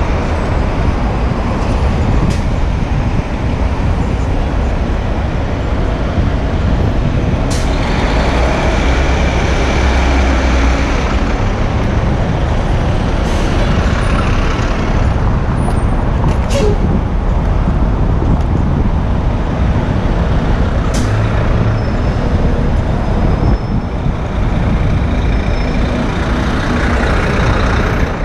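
Heavy city traffic, with buses and trucks, heard from a moving bicycle, with a steady low rumble of wind on the camera's microphone. A few short hisses of heavy-vehicle air brakes cut through, about a third of the way in, around the middle, and again later.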